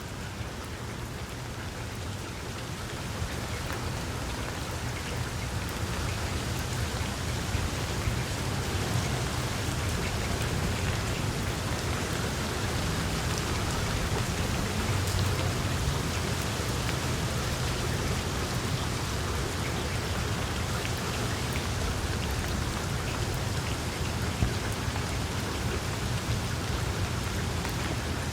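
Wood fire in a fireplace crackling steadily: a dense patter of small snaps over a low, even rumble, with an occasional louder pop.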